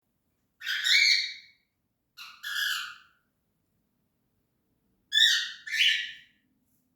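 Cockatiel giving three harsh, screechy calls, each made of two quick parts, a second or two apart.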